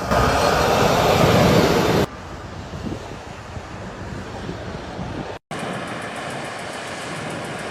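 Steady vehicle rumble mixed with outdoor noise, loudest for the first two seconds, then cutting abruptly to a quieter steady rumble; a brief dropout about five and a half seconds in is followed by similar steady noise.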